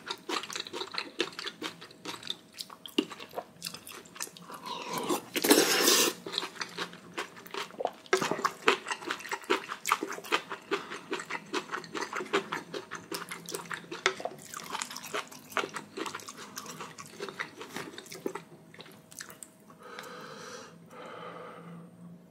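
Close-miked eating sounds: wet chewing and mouth clicks of a person eating spicy ramen and rice soaked in the broth, with one louder noisy sound lasting about a second, about five seconds in.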